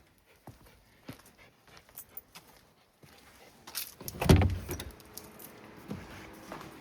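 Keys jangling, with light separate clicks in the first few seconds and a loud clatter and thump about four seconds in.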